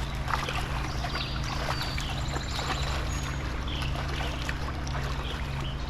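Shallow stream water trickling and splashing as a dog plays in it, with many small irregular splashes over a steady low hum.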